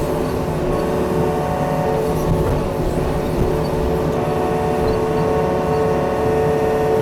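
Yanmar excavator's diesel engine running steadily under load with a hydraulic whine while the rake works at a pine stump. The whine grows stronger about halfway through.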